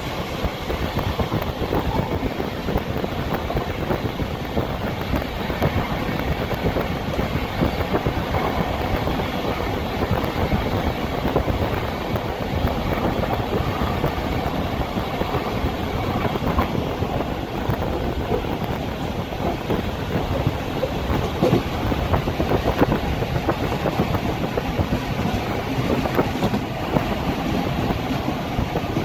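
A train running at speed, heard from on board: a steady rumble and rattle of wheels on the rails.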